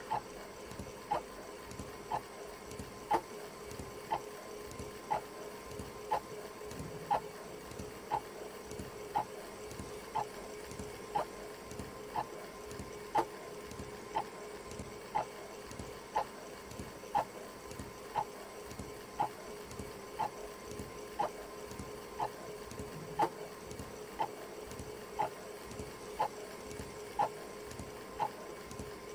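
Alarm clock ticking evenly, about once a second, over a steady low hum.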